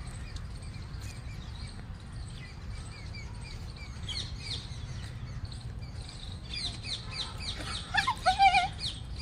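Birds chirping: scattered short, quick downward chirps about halfway through that build into a dense, rapid run over the last few seconds, loudest near the end. A steady low rumble lies underneath.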